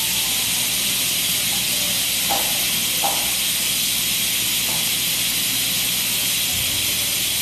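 TIG welding arc hissing steadily, with a few faint short chirps.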